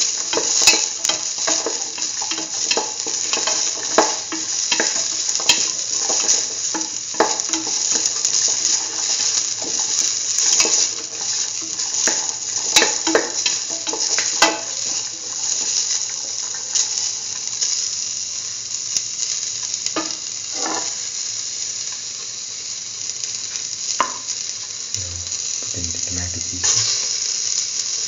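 Onion, shallots, garlic and ginger sizzling in hot oil in a metal pan during sautéing, with a steady high hiss. A spoon stirs them, scraping and knocking against the pan, often in the first half and only now and then later.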